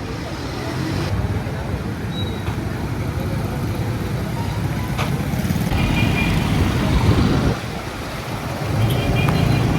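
Busy street traffic: vehicle engines and road noise, with a few short high tones about six seconds in and again near the end.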